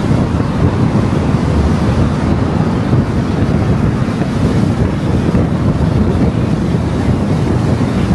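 Steady rumble of a car driving on the road: tyre and wind noise.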